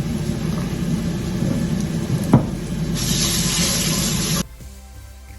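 Chopped garlic sizzling in hot oil in a kawali (Filipino wok), with a single sharp click about two seconds in and a louder hiss around three seconds. The sizzling cuts off suddenly a little after four seconds, giving way to faint music.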